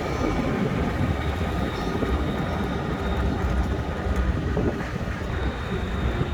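4x4 truck on the move: a steady engine rumble mixed with road noise, with no sharp events.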